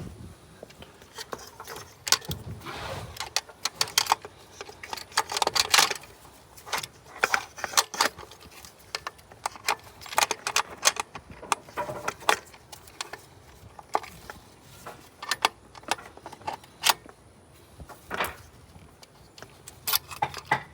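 Irregular metallic clinks and clicks of hand tools and parts being handled while a distributor is fitted into the engine.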